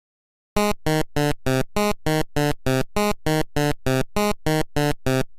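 A quick run of short synthesizer notes, about three a second, alternating between two low pitches, starting about half a second in and stopping just before the end.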